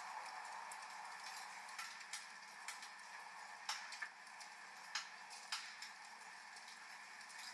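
Wood fire crackling, with sharp irregular pops a few times a second over a steady hiss of rain.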